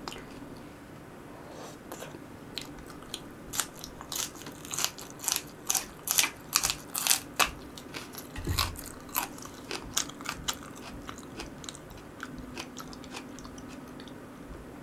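Close-up eating sounds: a run of crisp crunching bites and chewing, busiest in the middle stretch. A low thud comes about eight and a half seconds in.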